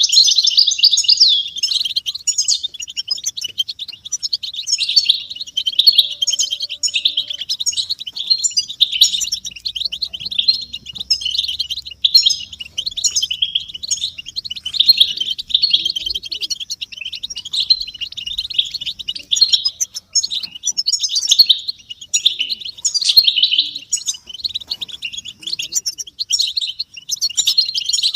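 European goldfinches twittering and chattering continuously in a dense, rapid stream of high, liquid calls and song phrases. This is a group chorus of the kind used to stimulate silent male goldfinches into singing.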